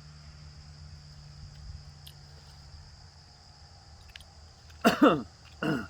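Insects chirring in a steady, high, even drone. About five seconds in, two brief loud sounds with falling pitch cut across it.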